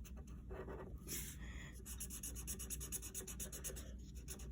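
Coloured pencil scribbling on paper in quick back-and-forth strokes, filling in an area of a drawing.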